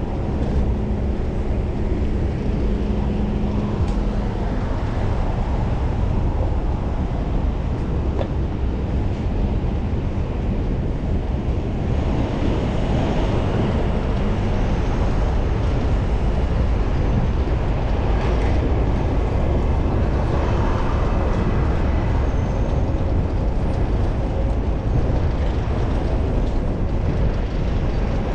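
Steady wind rush and road noise on a camera carried on a moving bicycle, strongest in the low rumble, with traffic around it. A faint steady hum fades out about four seconds in.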